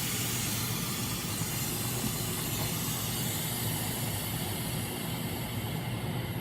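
Compressed air hissing steadily out of a screen laminating machine's release valve over the low hum of the machine, the highest part of the hiss thinning out near the end as the pressure falls toward zero.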